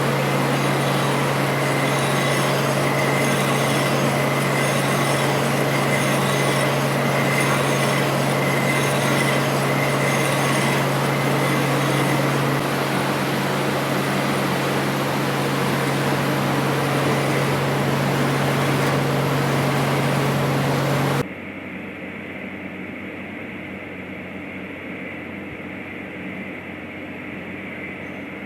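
Machinery running steadily with a constant low hum and a faint high whine. About twenty seconds in it cuts off abruptly to a quieter, duller steady noise.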